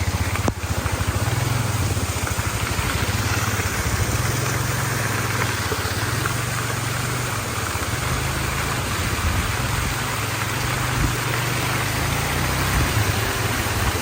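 Four-wheeler (ATV) engine running steadily at low revs, a constant low hum.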